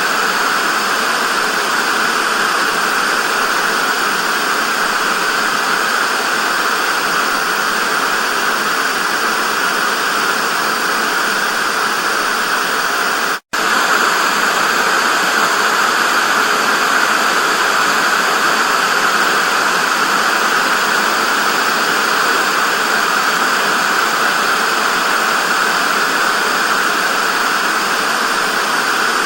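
Television static: a steady hiss, brightest in the upper-middle range, with a split-second dropout about halfway through.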